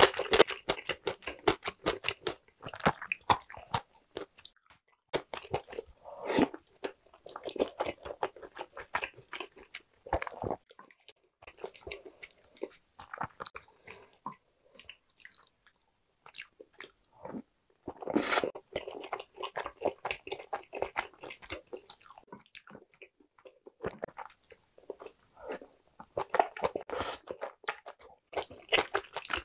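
Close-miked chewing and biting of mouthfuls of egg tteokbokki, chewy rice cakes and boiled eggs in thick sauce, with wet mouth sounds. The chewing comes in bursts with short pauses between, and one sharper, louder bite about two-thirds of the way through.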